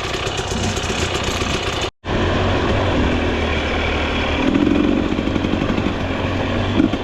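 Dirt bike engines running at idle, broken by a sudden cut about two seconds in, then running steadily again.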